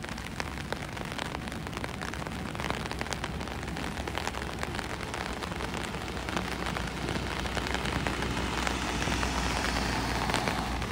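Steady rain falling, with close raindrops ticking. Near the end the hiss of a van's tyres on the wet road swells as it drives past.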